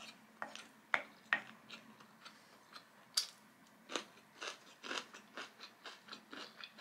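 Close-miked chewing of a mouthful of truffle butter rice: an irregular run of short mouth clicks and smacks, a few of them sharper.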